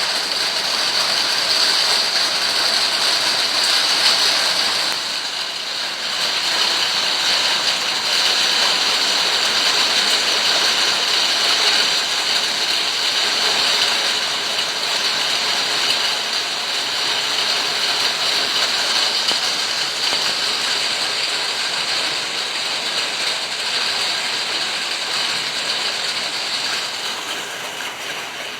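Steady rain falling, with a continuous high-pitched rattling buzz over it that eases near the end.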